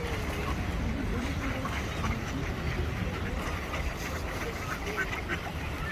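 Waterside city ambience: a steady low rumble with faint, scattered calls of ducks and other waterbirds.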